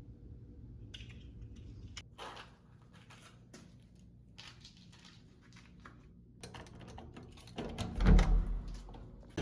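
Light, irregular clicks and taps of small objects being handled, then a louder thud with rustling near the end.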